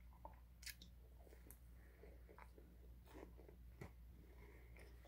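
Near silence: faint, scattered mouth clicks from quiet closed-mouth chewing of a soft grilled spaghetti sandwich, over a low steady hum.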